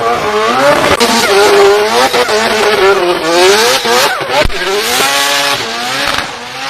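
High-revving race car engine, its pitch rising and falling over and over as it is revved and shifted, with two sharp cracks, about a second in and about four and a half seconds in.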